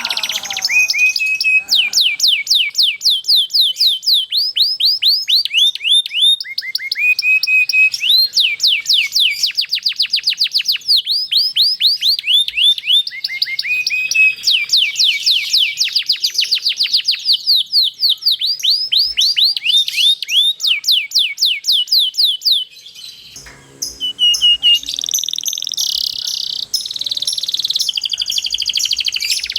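Domestic canary singing long rolling trills: fast runs of repeated sweeping high notes that change from one rapid phrase to the next. There is a short break about three-quarters of the way through, after which the trills resume.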